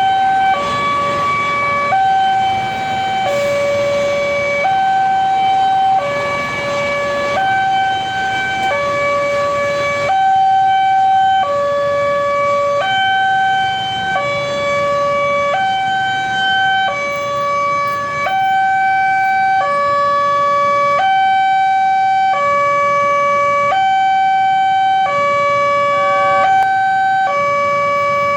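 Railway level-crossing warning alarm sounding at a crossing as a train approaches, a loud electronic two-tone signal switching steadily between a high and a low note a little more than once a second.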